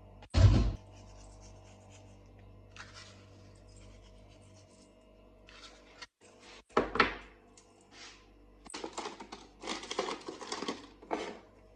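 Household handling noises: a sharp thump about half a second in, a knock near the middle, then a run of short scratching and rustling sounds near the end, over a faint steady hum.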